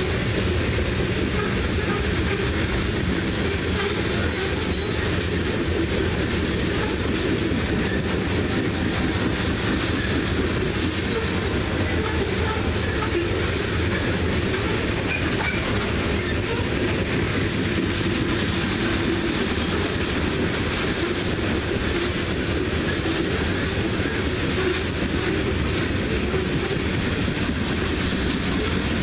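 A coal train's cars rolling past, a steady, unbroken rumble of steel wheels on rail.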